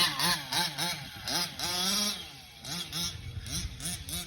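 Small two-stroke gas engine of a 1/5-scale RC truck running just after a pull start, its pitch rising and falling in quick throttle blips, about three a second, with one longer rev near the middle. The engine is new and still being broken in.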